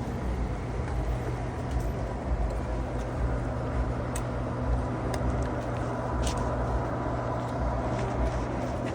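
Steady low rumble of city street traffic, with a faint steady hum and a few light clicks.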